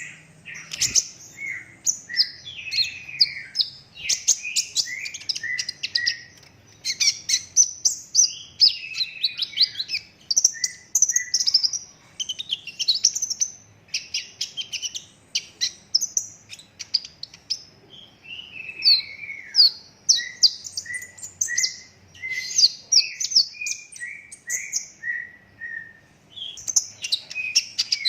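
Kolibri ninja sunbird singing without pause: a fast, dense song of high twittering chirps and trills, broken by runs of short repeated lower notes, most plainly near the end.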